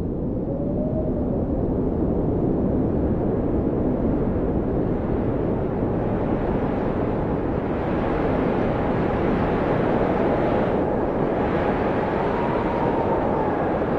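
Blizzard wind blowing steadily with a deep rumble, and a faint whistling howl that rises and falls in pitch.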